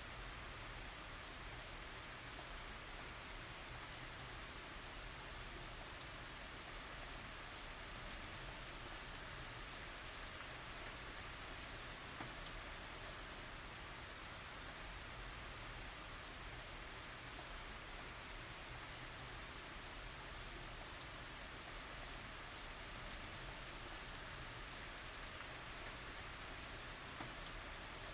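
Steady tropical rain falling, an even hiss with many fine drop ticks and no thunder.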